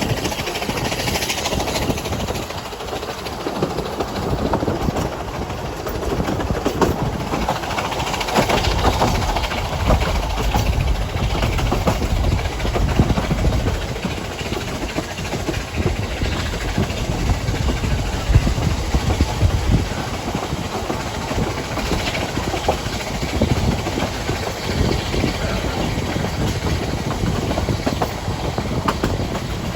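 Narrow-gauge train running on the line: a steady rumble of the train and its wheels on the track, with no clear beat.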